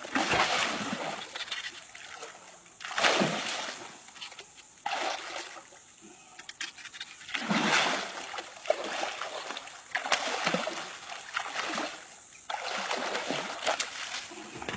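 Water splashing in repeated surges, about six of them, each two to three seconds apart.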